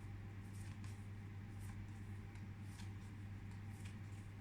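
Quiet room tone with a steady low hum and a few faint soft clicks and rustles of paper sound cards being handled.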